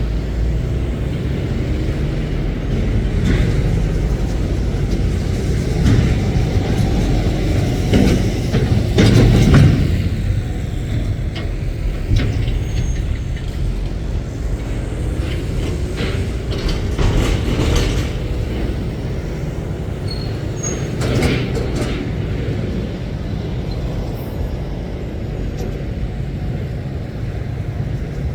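Heavy goods lorries' diesel engines running as they pull away and drive past, a steady low rumble that swells loudest about a third of the way in, with a few short sharp noises past the middle.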